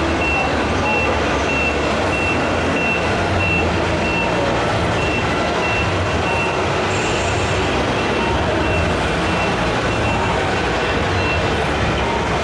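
A reversing alarm beeping in an even, high-pitched series, most likely the sound module of a radio-controlled model truck. The beeping pauses briefly about six seconds in, over a steady background din.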